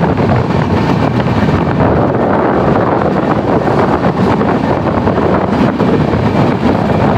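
Steady, loud running noise of a fast-moving passenger train, with wind buffeting the microphone.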